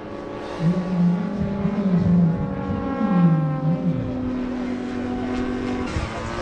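Motors of radio-control pattern aerobatic model planes flying, several pitched engine tones at once, rising and falling in pitch as the planes manoeuvre.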